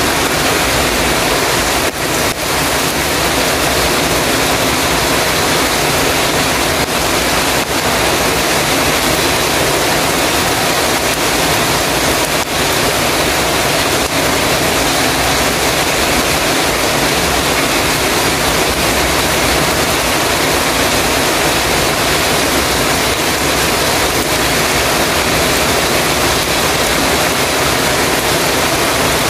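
Heavy rain falling steadily on a metal roof, a dense, even hiss.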